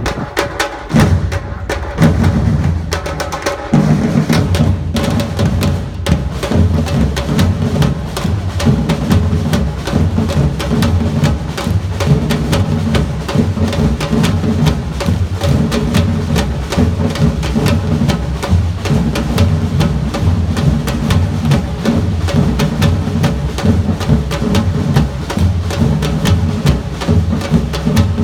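Samba-reggae drum band playing: deep bass drums beating a steady, driving rhythm under snare and higher drums. A few short breaks and accents come in the first few seconds before the full groove settles in.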